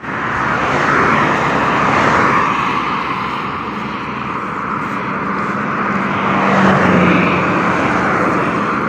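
Road traffic passing close by at speed: a rush of tyre and engine noise that swells and fades several times, with one vehicle's engine hum dropping in pitch as it goes past about seven seconds in.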